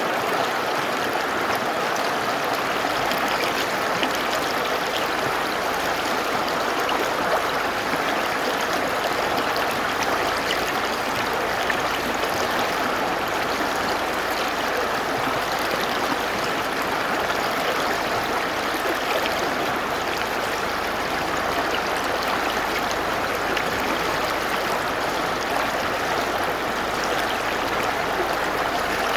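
Mountain river rushing steadily over rocks, a constant unbroken water noise.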